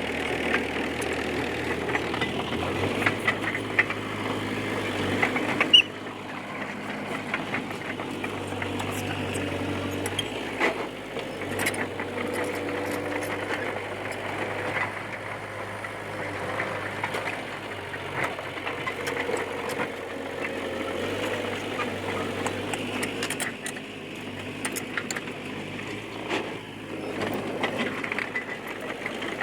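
Komatsu D20P bulldozer's diesel engine running under work, its low note shifting a few times, with scattered clanks. The sound drops abruptly in loudness about six seconds in.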